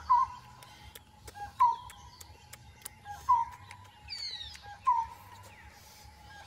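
A bird calling repeatedly, a short note about every second and a half, four times, with a quick falling whistle about four seconds in.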